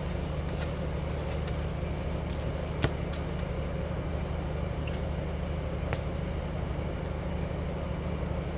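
Steady low rumble of court ambience with a few sharp knocks, the loudest about three seconds in and another about six seconds in.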